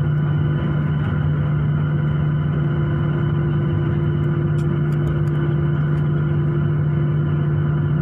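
Airliner's jet engines running steadily, heard from inside the passenger cabin as a continuous drone with a steady hum. The aircraft is about to take off.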